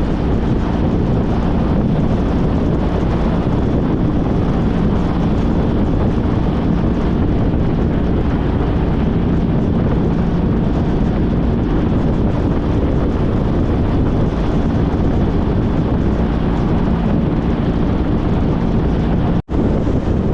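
2014 Honda CTX1300's V4 engine running steadily at cruising speed, with heavy wind noise on the microphone while riding. The sound drops out for an instant near the end.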